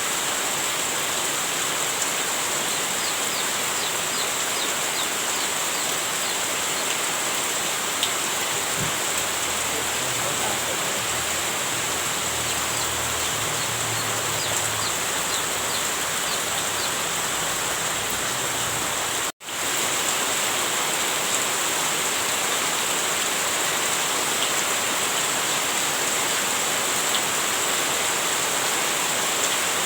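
Heavy rain falling steadily as a dense, even hiss, with a low rumble beneath it in the middle stretch. About 19 seconds in, the sound cuts out for a split second and then resumes.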